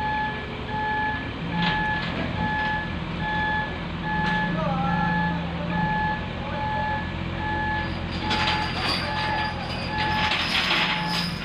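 A vehicle travel/reversing alarm beeping steadily, about twice a second, over a diesel engine running, as the JCB long-arm excavator is driven up onto a self-loader truck. From about eight seconds in, a harsh hissing noise joins in.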